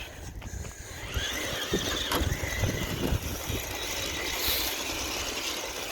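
The RC truck's Castle 3800 kV brushless electric motor whines, its pitch rising and falling, with scattered low knocks.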